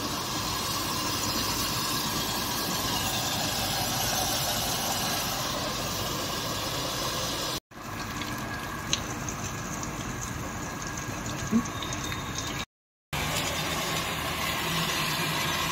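Massey tractor's diesel engine idling steadily, broken twice by brief dropouts.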